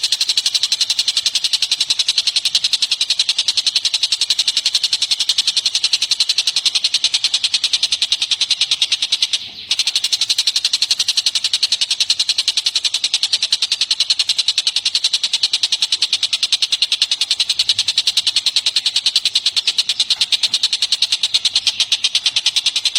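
A bird calling a fast, unbroken series of high chirps, many per second, from a songbird training recording; it breaks off briefly about nine and a half seconds in.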